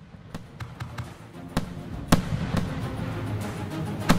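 Fireworks going off: irregular sharp bangs from shells bursting, growing louder as the sound fades in, with music underneath.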